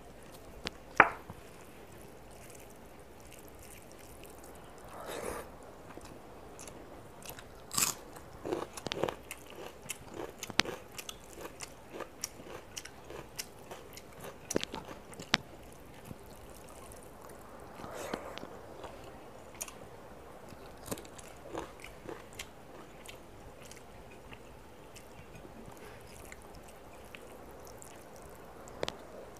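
Close-miked chewing and mouth sounds of a person eating rice and chicken curry by hand, with scattered wet clicks and smacks and the sounds of fingers mixing rice on the plate; a sharp click stands out about a second in.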